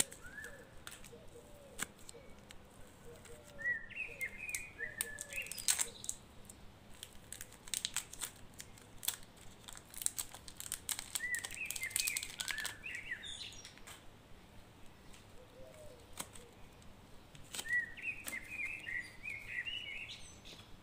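Small birds chirping in three runs of short falling notes a few seconds apart, over light crinkling and clicking from a plastic wrapper and clay being handled.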